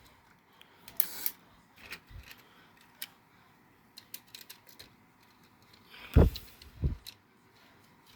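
Light clicks and taps of HO-scale model train cars being handled and coupled on the track. Two louder thumps come about six and seven seconds in.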